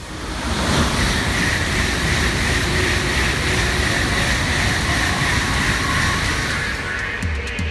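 Shinkansen bullet train running at high speed: a loud, steady rush of rail and air noise that builds over the first second and eases off near the end.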